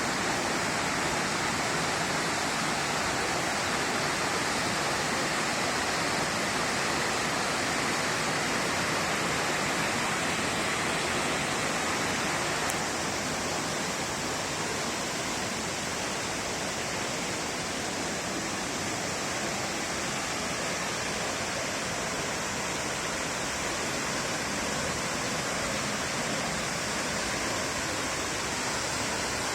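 Waterfall: a steady rush of falling water, a little quieter from about halfway through.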